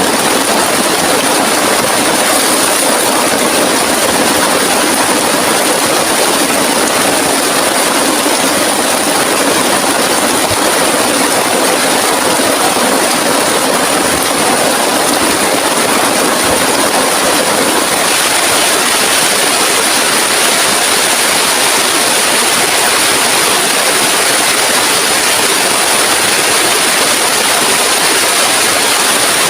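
Heavy rain pouring steadily, a loud, even rushing hiss that eases slightly in its lower part about two-thirds of the way in.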